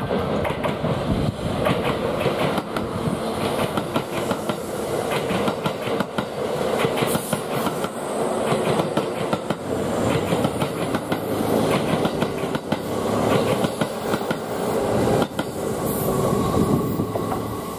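Kintetsu limited express electric train passing through a station at low speed, its wheels clacking over the rail joints in repeated runs of clicks along with the rumble of the cars. A thin steady whine rises in the last couple of seconds.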